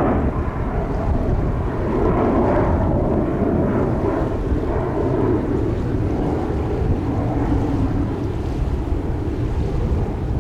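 Jet airliner engines running with a steady, swelling roar, over heavy gusting wind buffeting the microphone; the roar is strongest a few seconds in and eases later.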